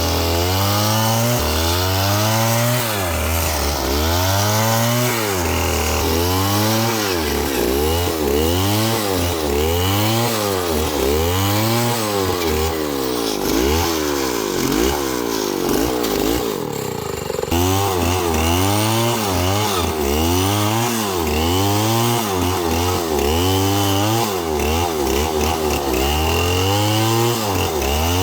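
Two-stroke chainsaw cutting through wood, its engine pitch rising and falling over and over, about once every second and a half, as the chain bites and frees. About halfway through it holds steadier for a moment, then changes abruptly and the rising and falling resumes.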